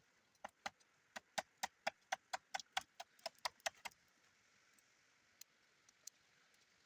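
A quick, regular run of about fifteen sharp light taps, about four a second, stopping after about three and a half seconds, followed later by two single ticks.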